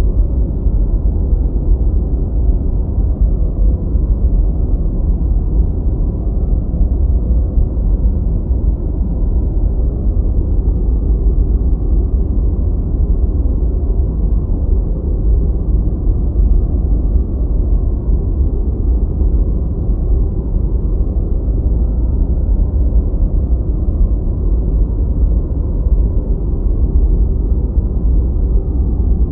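Deep white noise: a steady, unbroken low hiss, heavy in the bass and muffled, with almost nothing in the high end.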